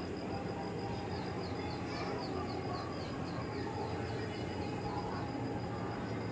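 A bird chirping in a quick run of short, high chirps, several a second, over a steady background rumble. The chirps start about a second in and stop shortly before the end.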